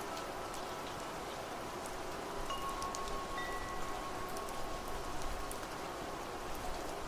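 Steady rain falling, with wind chimes striking now and then and ringing on over it; a fresh chime note starts about two and a half seconds in and sustains.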